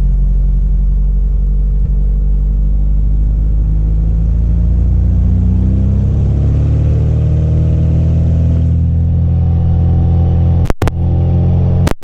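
Cessna Cardinal RG's four-cylinder Lycoming engine and propeller, heard from the cabin, running steadily and then being throttled up, its pitch rising from about halfway through. The sound cuts out briefly twice near the end.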